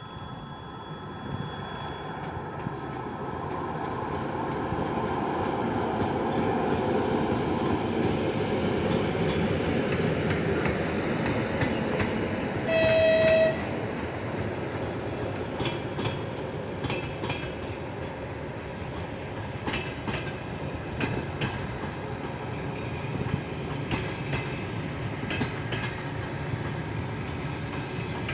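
Train approaching and passing: a rumble that swells over the first several seconds, one short horn blast about halfway through, then wheels clicking over the rail joints.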